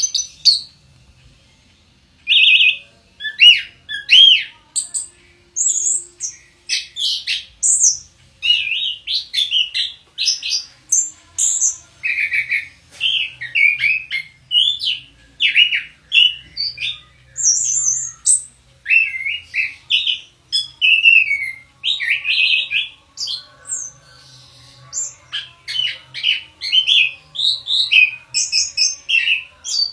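Chestnut-capped thrush (anis kembang) singing a long, varied run of quick whistled and chattering phrases, one after another with hardly a pause, starting in earnest about two seconds in.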